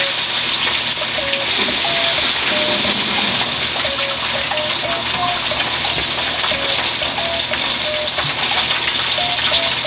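A whole chicken thigh frying in hot oil in a frying pan: a steady, dense sizzle with small scattered pops.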